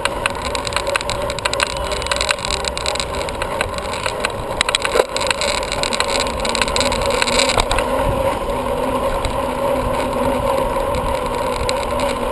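Bicycle in motion: steady rolling and running noise with a constant hum, many small clicks and rattles, and one sharper knock about five seconds in.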